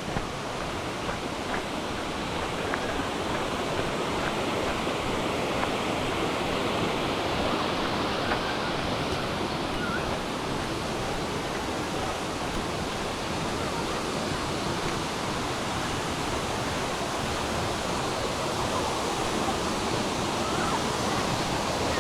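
Waterfall water falling and splashing, a steady rushing noise with no breaks.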